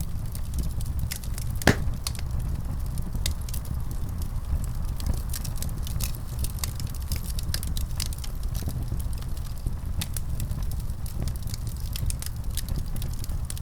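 Fireplace wood fire crackling, with irregular small pops over a steady low rumble. One louder pop comes a little under two seconds in.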